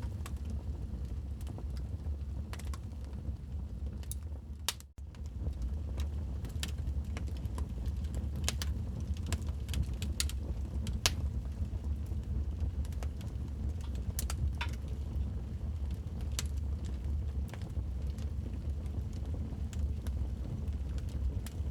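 Wood fire in a fireplace crackling: irregular sharp snaps and pops over a steady low rumble. The sound cuts out for an instant about five seconds in.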